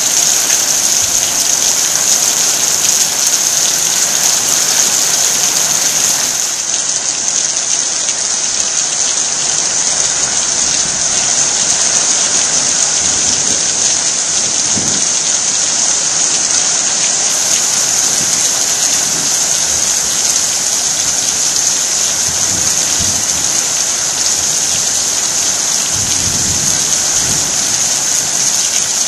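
Heavy rain pouring steadily, with low rumbles of thunder about halfway through and again near the end.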